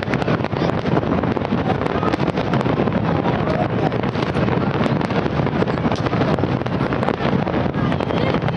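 Fireworks going off without pause, with many bangs and crackles overlapping into a continuous rumble. Wind on the microphone.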